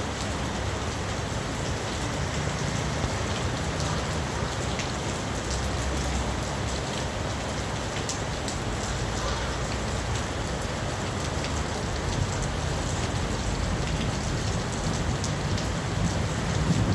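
Heavy rain falling steadily, with many drops ticking sharply on nearby surfaces.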